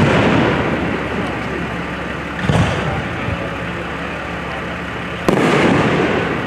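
Fireworks shells bursting: a sharp bang about five seconds in with a long rolling rumble after it, a duller boom about two and a half seconds in, and the rumble of an earlier burst dying away at the start.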